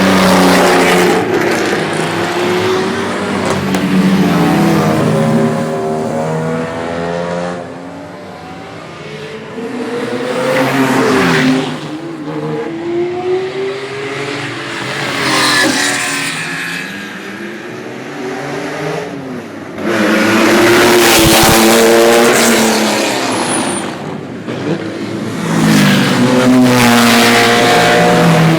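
Sports car engines revving hard and accelerating past, one car after another, their pitch rising and then dropping away as each goes by. The loudest passes come in the second half.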